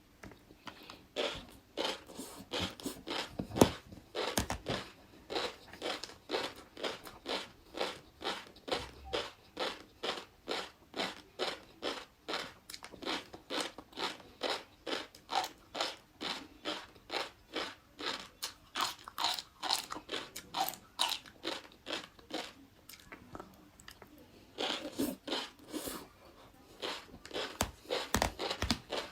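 Close-miked chewing of crunchy food: a steady run of wet crunches at about three a second, with one loud bite a few seconds in.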